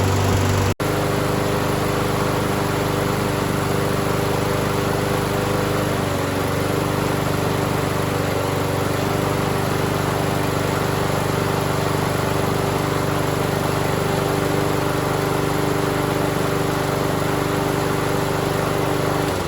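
Walk-behind lawn mower engine running steadily at its set speed after a tune-up, with a slight drop in pitch about six seconds in. It sounds smooth and even, the sign of an engine running right. The engine winds down at the very end.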